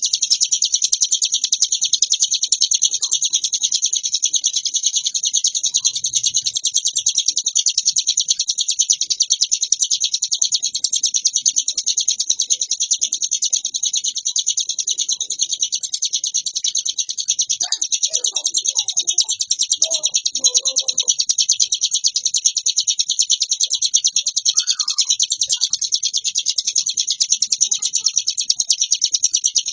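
Ciblek gunung, a prinia, singing in full song: an unbroken, very rapid, high-pitched chattering trill with no pauses.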